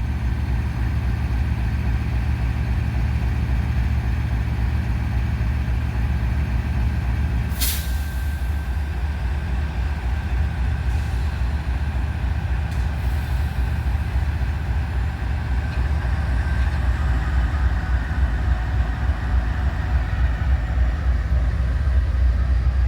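Diesel-electric freight locomotives idling with a steady low rumble. A short, sharp burst of air hiss comes about eight seconds in, typical of an air-brake release, and the engine note drops a little at the same moment.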